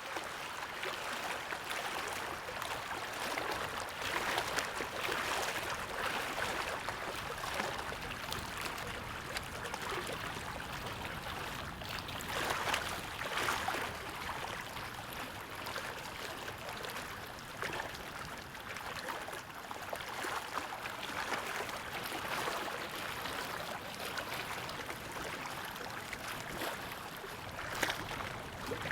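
Moving water: a steady rushing, splashing noise that swells and eases every few seconds.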